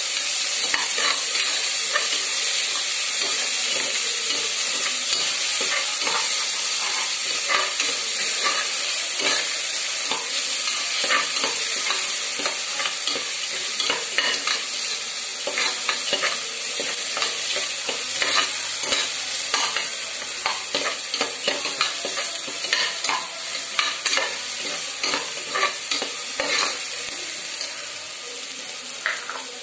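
Chicken pieces sizzling in masala in a steel pot while a spoon stirs them. The spoon scrapes and clicks against the pot many times over a steady frying hiss.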